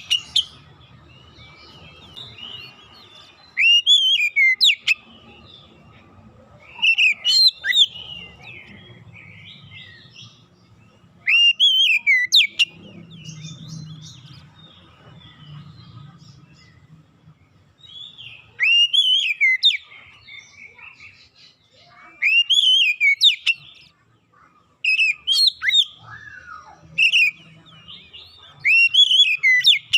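Oriental magpie-robin (kacer) song played as a lure: short, loud phrases of sweeping whistled notes, each about a second long, repeated every few seconds.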